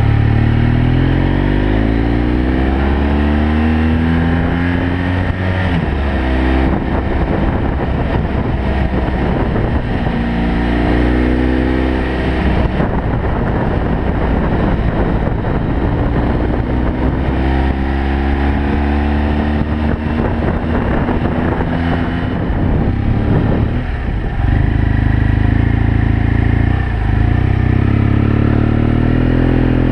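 BMW F800 GS Adventure's parallel-twin engine pulling the bike uphill. Its pitch climbs several times, with a short drop at each gear change, under a steady rushing noise.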